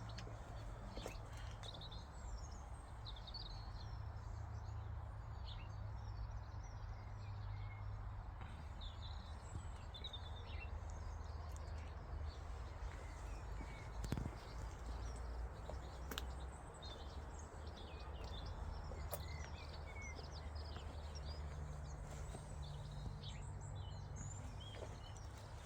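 Small birds chirping and twittering on and off, with many short calls over a steady low rumble.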